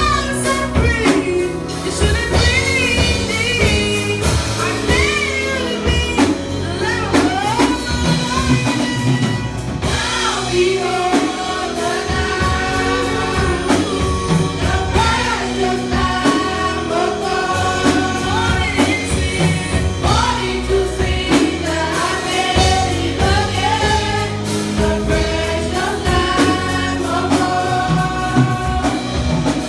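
Choir singing a gospel-style song with instrumental backing.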